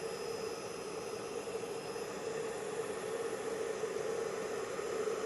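Handheld hairdryer running on its slow, cold setting: a steady whir of its fan motor and rushing air with a constant hum.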